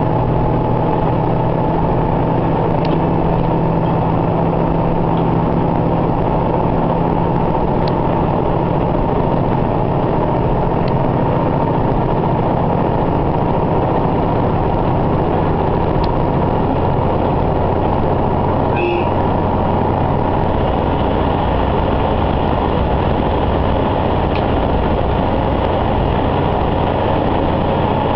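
Diesel railcar running along the line, heard from inside: a steady engine and running drone, with its low engine tones shifting a little past the middle and a few faint clicks.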